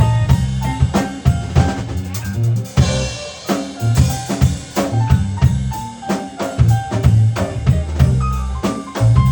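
Electronic keyboards playing an instrumental tune with held chords and a bass line over a steady drum beat.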